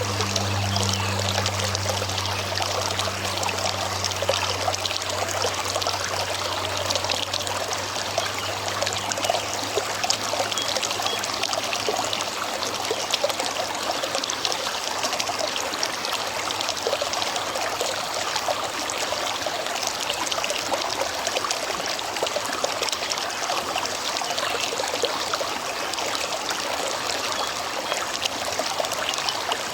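River water flowing steadily with a rushing, trickling sound. A low hum underneath fades out over the first several seconds.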